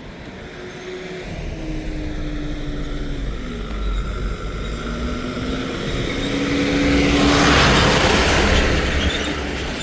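Vehicle engine and road noise heard while driving, the engine tone sliding up and down with speed. A rushing swell of noise builds about six and a half seconds in, peaks a second later and fades.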